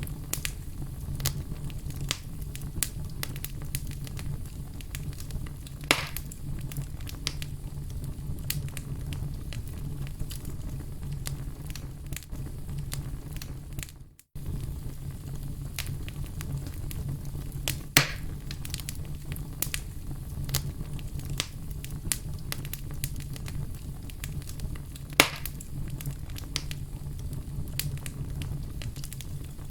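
Wood fire crackling steadily over a low rumble, with dense small snaps and a few louder pops. The sound drops out briefly about halfway through.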